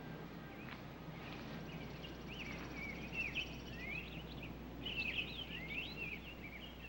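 Birds chirping in short rising and falling calls over a low steady background hiss, with a faint fast high trill in the first half.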